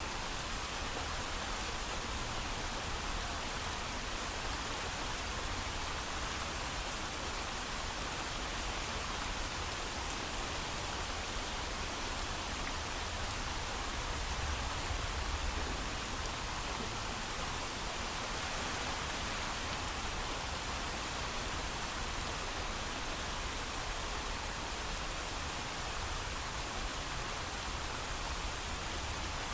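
Steady heavy rainfall, an even hiss with a low rumble and no thunder.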